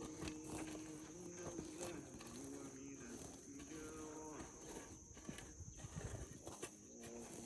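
Cattle mooing: long, drawn-out low calls, one running into the next, with a short break a little past the middle.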